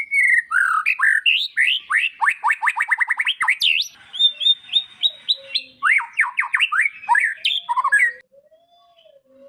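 A songbird singing a loud, varied song of rapid sweeping notes and fast trills, which stops about eight seconds in.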